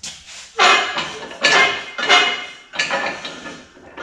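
Steel exhaust pipe and tools clanking and scraping as the pipe, with an expander in its end, is set onto a pipe bender's roller. There is a run of several sharp metal knocks and scrapes, the strongest starting about half a second in.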